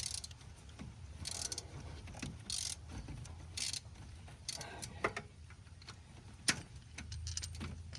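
Metal tools being handled: a socket and ratchet clinking and rattling in short bursts, with a few sharp clicks, the loudest about six and a half seconds in.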